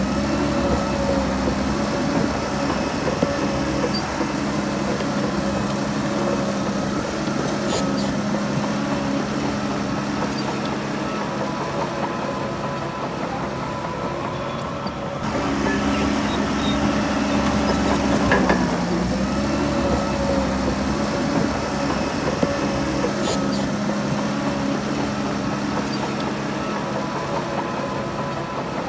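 Heavy diesel engine of earthmoving machinery running steadily. Its pitch sags briefly about two-thirds of the way through, as if under load, and two sharp clanks come through, one about a quarter of the way in and one near three-quarters.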